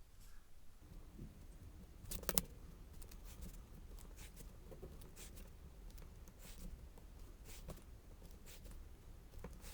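Faint handling noises of craft tools and paper on a tabletop: scattered light taps and clicks, the loudest a short cluster about two seconds in.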